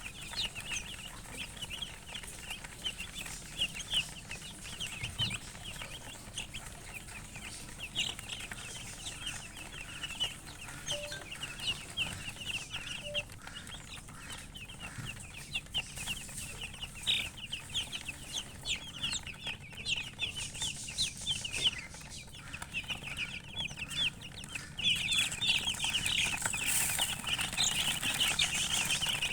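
A group of domestic chicken chicks peeping, many short high-pitched falling cheeps overlapping in a continuous stream, growing denser and louder near the end.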